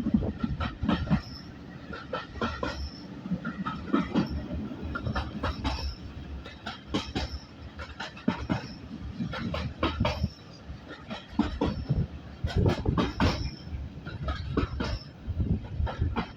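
Old railway carriage running along the track, heard from on board: a low rumble with irregular clicks and knocks from the wheels over the rail joints.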